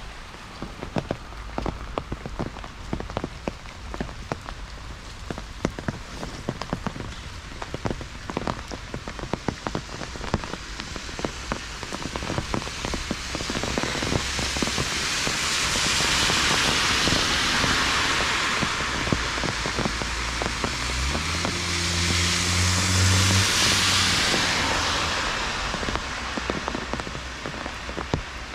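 Heavy rain pattering on surfaces, dense with fine drop clicks. From about halfway through, a louder hiss swells twice and fades again. Near the end a low hum sounds for a few seconds.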